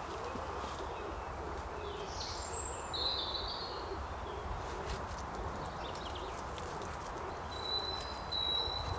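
Birds calling in woodland: a few short high chirps a couple of seconds in and a thin high whistle near the end, over a steady background hiss.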